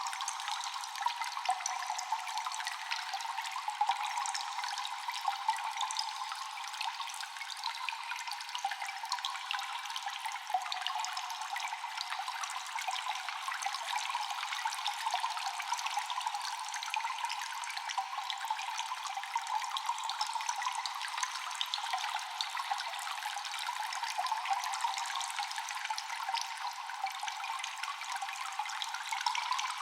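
Many water drips falling fast and overlapping over a steady trickle of water, echoing in a cave, with no low rumble beneath.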